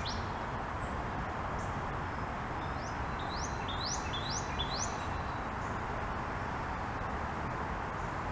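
Small birds chirping: a quick run of short, rising chirps about three to five seconds in, over steady background noise.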